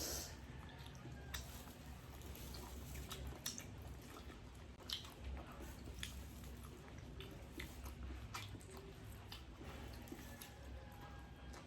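Close-up mouth sounds of eating kinilaw: chewing with scattered wet smacks and clicks at irregular moments.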